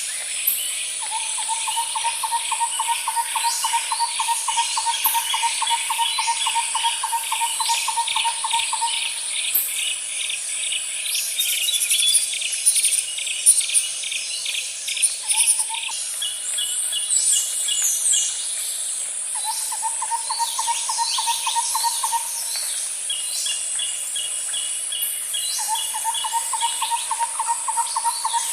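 Outdoor nature ambience: birds calling and chirping over a steady, high insect drone, with fast pulsing insect-like trills and a lower, even trill that starts and stops several times.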